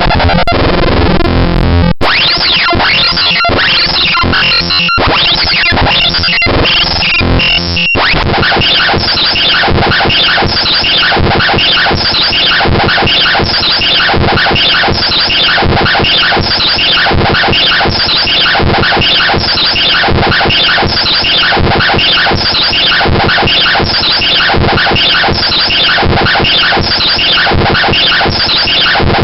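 Loud, harsh synthesized bytebeat-style noise music played by a GDI malware payload. It switches abruptly to a new pattern about 2, 5 and 8 seconds in, then runs as one fast, evenly repeating glitchy loop.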